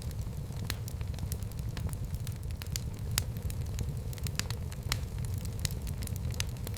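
Fire burning in a fireplace, crackling with frequent, irregular sharp pops over a steady low rumble.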